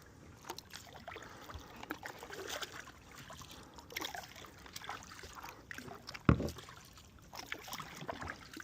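Kayak paddle dipping and dripping in the water, with scattered small splashes and trickles, and one louder thump about six seconds in.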